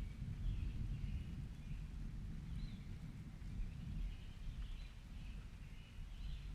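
Storm ambience: a low, fluctuating rumble, with faint, high chirping calls recurring about once a second above it.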